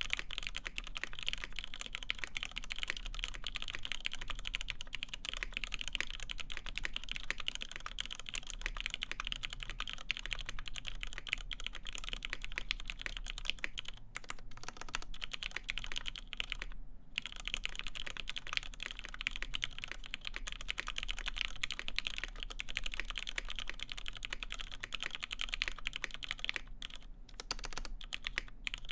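Continuous typing on a custom mechanical keyboard with lubed West German Cherry MX Black linear switches, a full FR-4 plate and PBT keycaps: a dense, even stream of keystrokes, broken by a few brief pauses.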